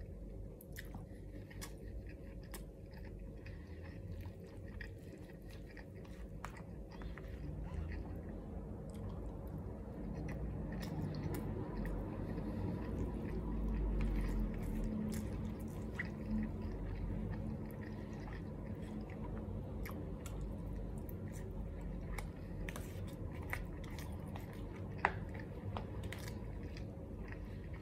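Close-miked chewing of a mouthful of fried rice and omelette, wet and continuous, louder near the middle. Scattered light clicks of a metal spoon against a plastic container, with one sharp click near the end.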